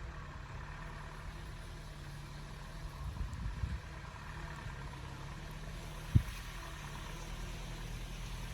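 Truck engine idling steadily with a low hum, rumbling a little rougher for a moment a few seconds in. A single sharp thump cuts in about six seconds in.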